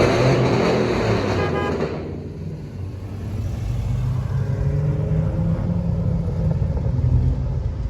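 Car engine revving loudly at the start, the noise dying away over about two seconds, then settling into a deep steady rumble.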